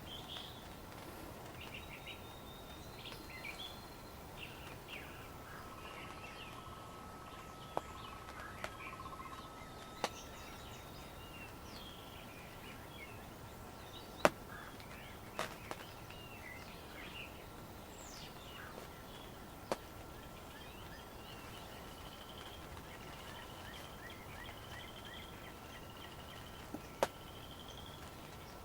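Wild songbirds chirping and calling over a steady outdoor background hiss, with a bird repeating a short rising call about every second and a half near the end. A handful of sharp single taps stand out, the loudest about halfway through.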